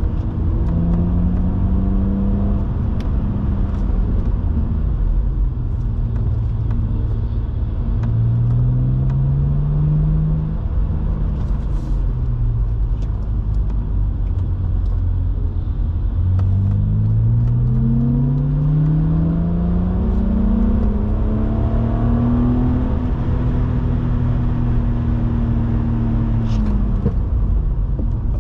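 BMW 130i's naturally aspirated straight-six pulling under load: its pitch climbs briefly near the start and again about a third of the way in, then rises through several upshifts in a longer pull, holds steady, and drops near the end as the throttle comes off. Steady low road and tyre rumble runs underneath.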